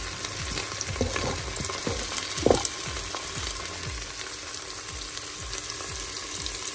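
Diced onion and red pepper sizzling in hot olive oil in a Cookeo multicooker pot on its browning setting, a steady frying hiss with scattered light clicks and one louder click about two and a half seconds in.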